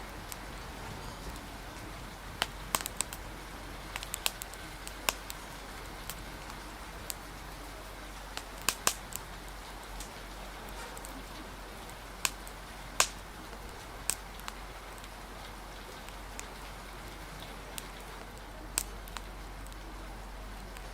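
Steady rain and wind hiss with a wood fire crackling over it: sharp, irregular pops and snaps, a few of them much louder than the rest.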